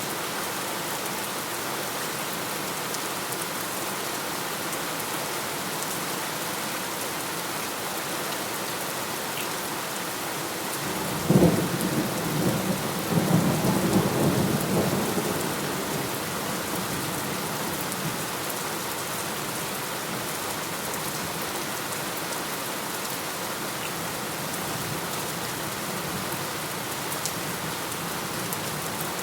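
Steady rain falling throughout. About eleven seconds in, a sudden thunderclap is followed by thunder rumbling for several seconds, then fading back under the rain.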